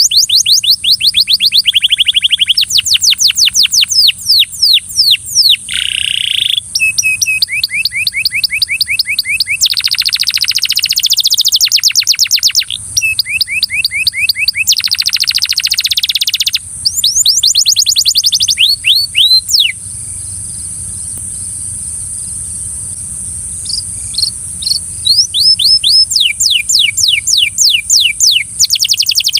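Belgian canary singing: rolling trills of rapidly repeated sweeping notes, each phrase at a different speed and pitch, with a pause of a few seconds about two-thirds of the way through before the trills start again.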